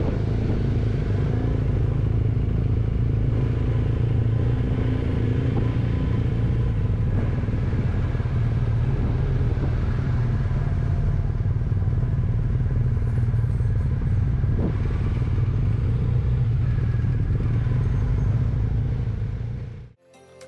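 Motorcycle engine running at a steady speed, with no revving, until it cuts off sharply near the end.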